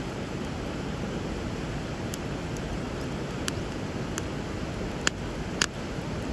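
Steady rush of flowing river water, with several sharp pops and cracks from a wood bonfire, the loudest a little over five seconds in.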